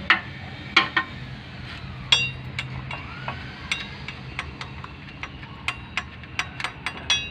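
Metal hand tools clinking and tapping on metal engine parts: a string of sharp clicks and knocks, one ringing clink about two seconds in, and quicker, irregular taps in the second half.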